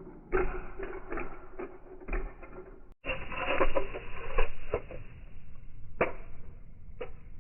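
Slowed-down knocks and clattering of 1/64 scale diecast toy cars crashing and tumbling, a string of separate hits with a sudden break about three seconds in.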